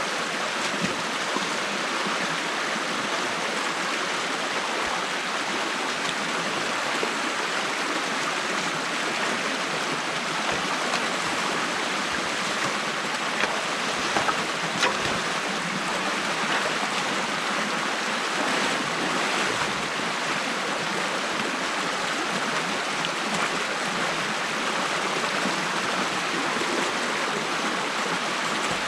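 Stream water rushing steadily through an opening in a beaver dam, with a few brief knocks about halfway through.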